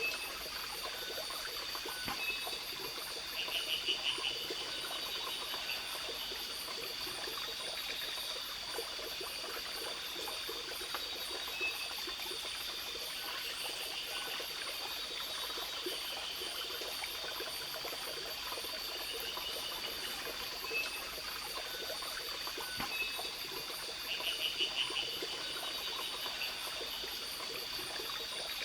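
A small stream running steadily under a steady high trilling of forest insects. Twice, about four seconds in and again near the end, a short rapid rattling call rises above it.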